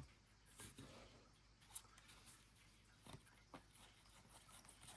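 Near silence with a few faint, brief slides and taps of trading cards being handled, about four in all.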